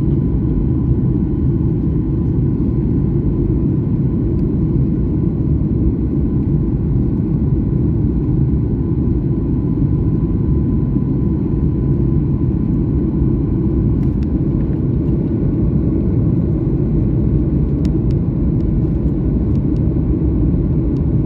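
Steady low rumble of an airliner's engines and airflow heard inside the passenger cabin, even in level throughout, with a faint steady tone above it.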